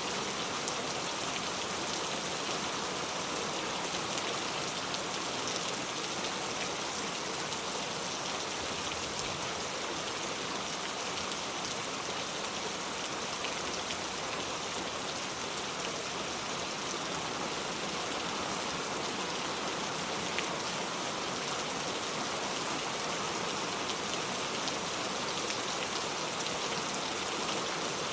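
Steady rain falling, an even patter of many drops hitting the ground and surfaces.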